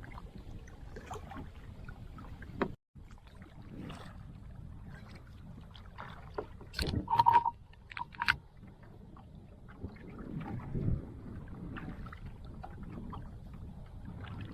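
Strong wind buffeting the microphone, a steady low rumble, with a few knocks and a short high note about halfway through.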